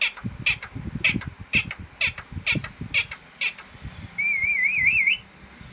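Green parrot giving a run of short, harsh calls about twice a second, then a wavering whistle-like trill lasting about a second.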